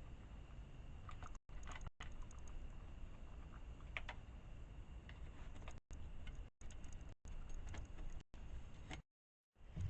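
Faint, irregular clicks and taps, typical of birds pecking at seed in a food bowl, over a low hiss and rumble; the sound cuts out to silence for split seconds several times, and for about half a second near the end.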